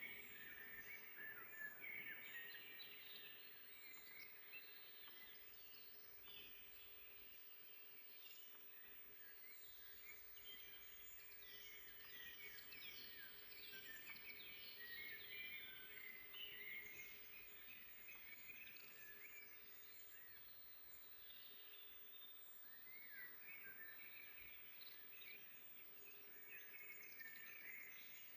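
Faint forest birdsong: several songbirds singing at once, with many quick chirps and short sliding notes overlapping, over a soft steady background hiss.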